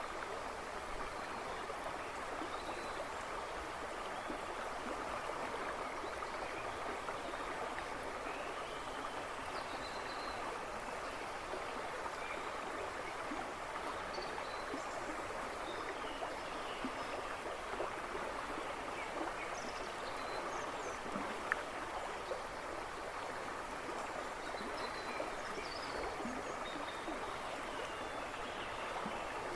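A river babbling and rushing steadily over stones, with small birds chirping faintly in the background every few seconds.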